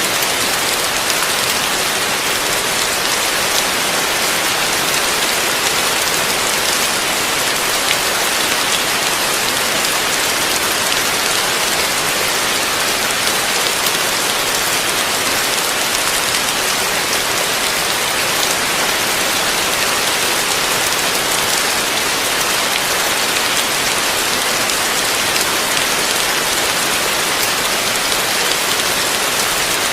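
Heavy rain falling steadily: a dense, even hiss of drops with no pauses or separate events.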